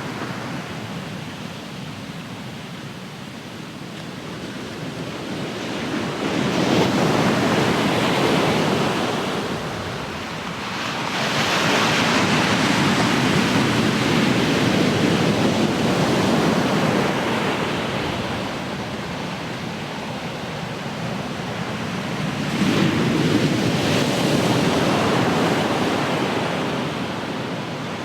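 Ocean waves breaking on the shore, a steady rushing surf that swells three times, about six, eleven and twenty-two seconds in, and ebbs again between them.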